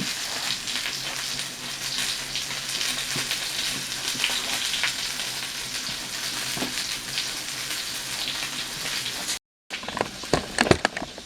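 Cheeseburger patty frying on a stove burner: a steady sizzle with crackles. Near the end the sizzle breaks off and a few sharp knocks follow.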